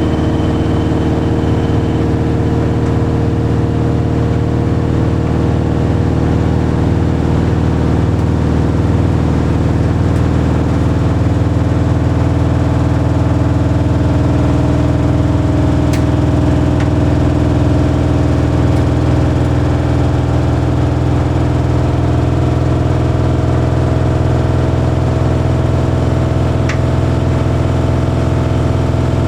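Bosch Series 6 heat pump tumble dryer running steadily mid-cycle on the Shirts program: a continuous hum of the turning drum and the heat pump, with a faint tick twice.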